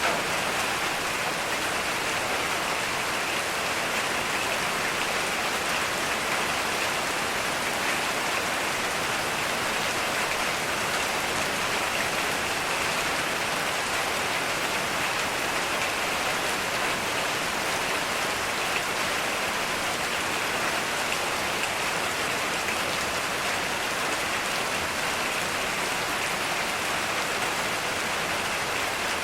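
Heavy rain falling steadily, an even, unbroken hiss of rain on surfaces with no thunder.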